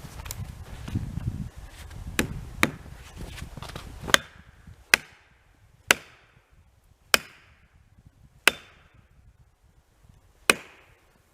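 Felling wedges being driven into a tree's back cut with hard, single blows: a few lighter knocks, then six sharp strikes spaced one to two seconds apart. The wedges are pounded in while the tree still won't go over.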